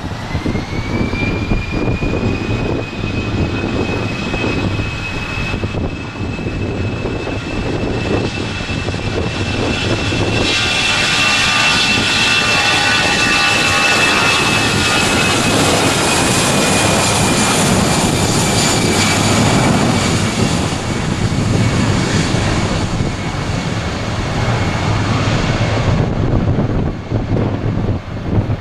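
Airbus A319 twin jet engines at takeoff thrust: a high whine rises in pitch over the first second or two, then holds steady. A broad rushing jet noise swells from about ten seconds in as the airliner accelerates down the runway past the microphone. It is loudest a little past the middle and drops off sharply near the end.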